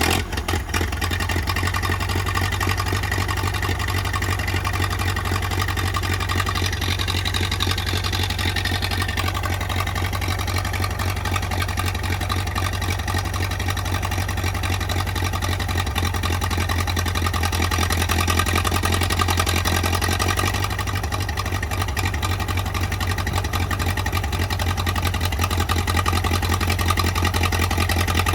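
An engine running steadily at a low, even idle just after starting, the engine's low note the loudest thing throughout, rising slightly for a couple of seconds past the middle.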